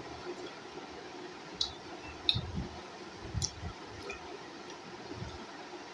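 A person chewing a mouthful of food: a few short, sharp mouth clicks and wet smacks spread over the seconds, with some dull low thumps, over quiet room tone.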